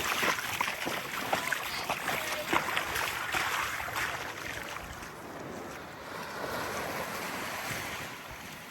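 Small waves lapping and washing on a sandy beach with a breeze, splashy in the first few seconds and then a smoother, softer wash. A few short, faint calls sound in the first three seconds.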